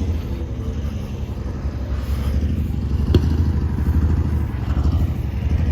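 A large engine running steadily with a low, rapidly pulsing rumble. There is one sharp click about three seconds in.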